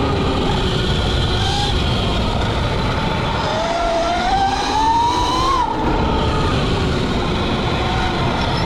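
Electric drivetrain of a Sur-Ron electric dirt bike, an 80 V, 29 kW build, whining under throttle over steady rough noise; the whine climbs in pitch from about three and a half seconds in and drops away near six seconds as the throttle comes off.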